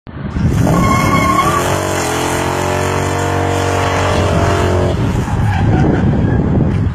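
A car driven hard: the engine revving high with tyres squealing and skidding. A short high squeal comes about a second in, the engine note holds high, then drops away about five seconds in.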